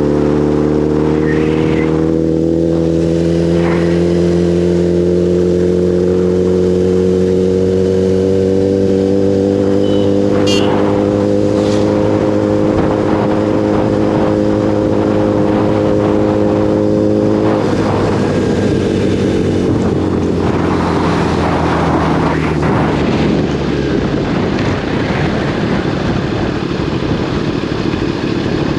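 Motorcycle engine running at steady revs, its pitch creeping slowly upward; a little past halfway the steady note breaks off and the engine sound turns rougher and noisier.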